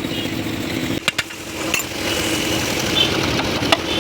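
An engine running steadily, with a few sharp metallic clicks about a second in, partway through and near the end. The drone dips briefly after the first click.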